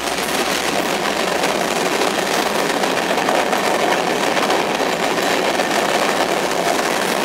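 Covered hopper cars of a long mixed freight train rolling past: a steady, even noise of steel wheels running on the rails.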